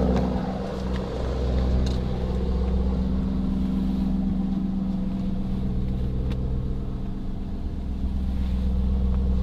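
Car engine running steadily with a low, even hum that holds one pitch.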